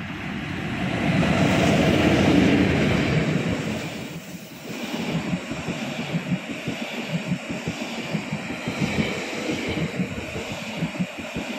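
An SBB Re 420 electric locomotive passes close by, loudest about two seconds in. It is followed by TILO passenger cars rolling past with a quick, uneven clatter of wheels over the rail joints.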